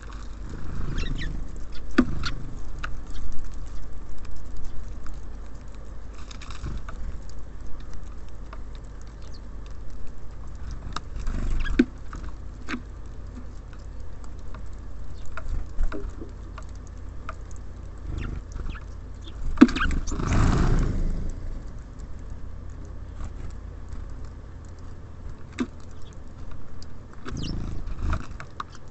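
Small birds at a feeder: irregular pecking and tapping clicks as they land and feed, with a short rush of noise about two-thirds of the way through, over a steady low rumble.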